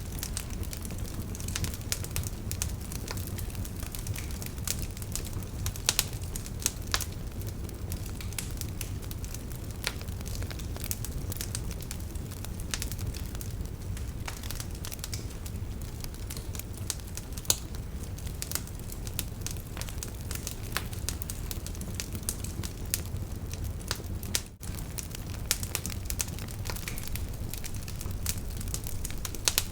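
Campfire burning: frequent sharp crackles and pops of burning wood over a steady low rush of flame. The sound dips out for an instant about three-quarters of the way through.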